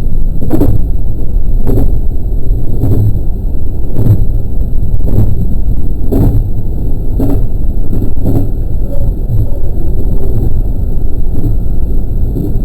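A JR West 223 series electric train running at speed with a steady low rumble. Its wheels click over rail joints about once a second in an even rhythm.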